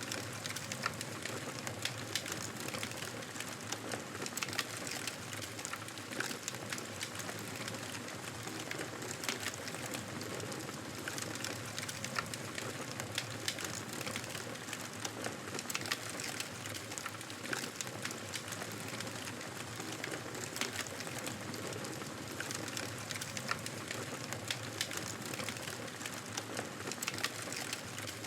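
Wood fire burning in a fireplace: a steady hiss of flames with many small, irregular crackles and pops.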